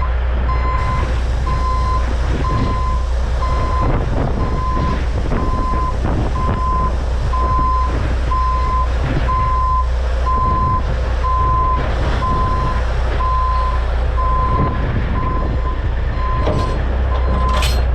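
Backup alarm beeping steadily about once a second over the running diesel engine of a semi tractor as it reverses, backing toward the trailer's kingpin to couple.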